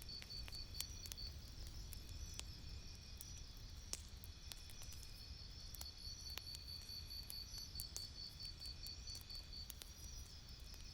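Campfire crackling: scattered sharp pops and snaps over a steady low rumble. A high chirping, about six pulses a second, runs in the background, stops about a second in and comes back about halfway through.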